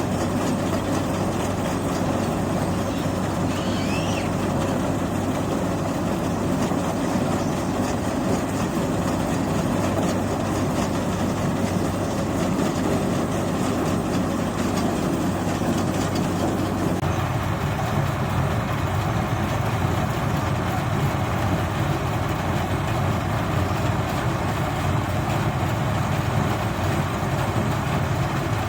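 Engine of a paddy-unloading machine running steadily under load, its sound changing abruptly about 17 seconds in.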